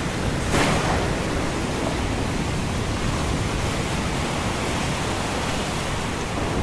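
Ocean waves breaking in a steady wash of surf noise, with a brief sharper surge about half a second in.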